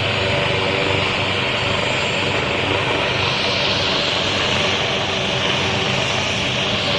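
Helicopter engine and rotor running steadily and loudly, a constant whine over a dense whirr.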